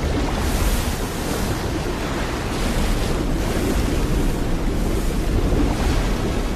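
Rushing, surging water with wind-like noise, rising in repeated swells about once a second: the film's water sound effects.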